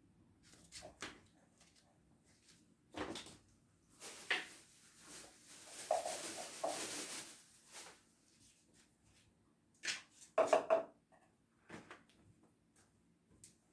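Kitchen knocks and clatter: scattered sharp knocks and clicks, loudest in a cluster about ten seconds in, with a few seconds of hissing noise in the middle.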